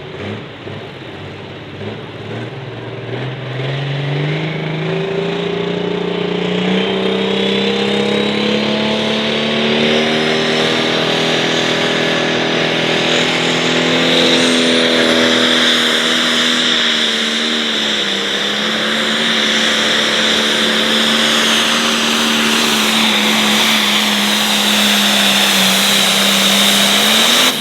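A light-limited pro stock pulling tractor's turbocharged diesel engine under full load on a pull. Its pitch climbs over the first several seconds, holds high, sags briefly about two-thirds through, then runs steady and loud to the end.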